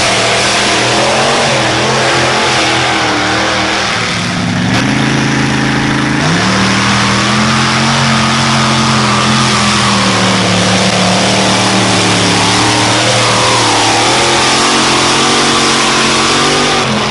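Engine of a pulling vehicle running hard under load during a pull, loud and steady. Its pitch shifts: a dip about four seconds in, a jump up at about six seconds, then a slow sag as it drags the sled.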